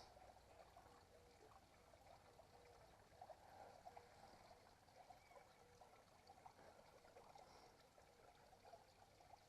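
Near silence: faint outdoor background hiss with faint, scattered short sounds.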